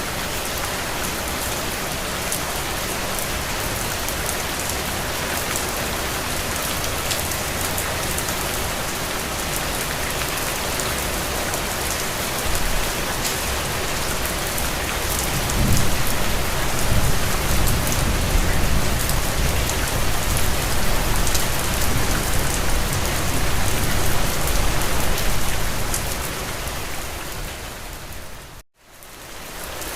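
Steady rain falling on surfaces, with a low rumble of thunder building from about halfway through and lasting around ten seconds. Near the end the sound cuts out abruptly for a moment and then fades back in.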